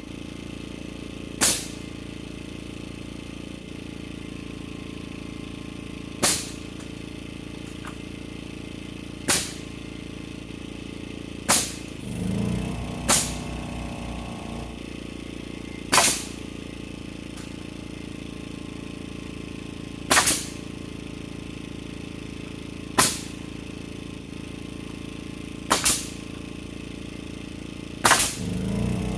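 Sharp single shots every few seconds, some in quick pairs, over a steady hum: a framing nailer driving nails into roof rafters.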